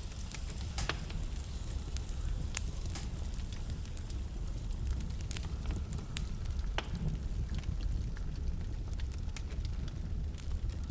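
Wood fire burning in a fireplace: a steady low rumble and hiss with irregular sharp crackles and pops from the burning logs, a few louder pops among them.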